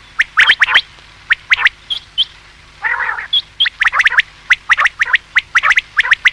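Common quail calling: short, sharp notes in quick clusters, repeated throughout, with a harsher buzzy call about three seconds in.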